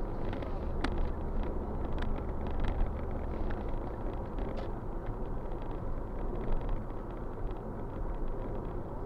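Steady road and engine rumble of a moving car heard from inside the cabin, with a few faint clicks and knocks.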